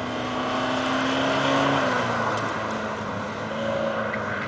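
2002 VW Golf TDI's four-cylinder turbodiesel with a straight-piped exhaust, pulling through an autocross course. Its engine note climbs slightly, then eases off about two seconds in as the throttle comes off.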